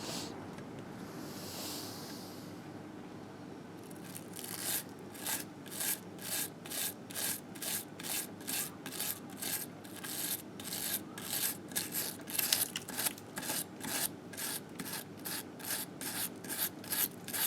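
Grime being scrubbed off a 1958 Harley-Davidson Sportster engine case by hand. After a softer stroke early on, brisk, even rubbing strokes run at about two a second from about four seconds in.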